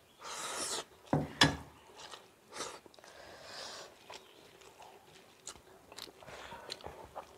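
Close-up eating sounds of people eating rice and egg bhurji with their hands: wet chewing and mouth clicks in short scattered bursts, with a sharp knock about a second and a half in.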